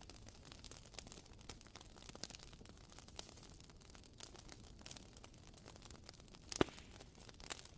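Wooden wick of a WoodWick candle crackling: faint, irregular small pops and ticks, with one louder pop about six and a half seconds in.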